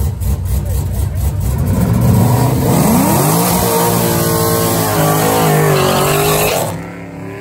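A car's V8 engine under hard acceleration on a drag-race run. A low rumble gives way about three seconds in to a steep climb in revs, which then holds high with small steps in pitch. The sound falls away suddenly near the end.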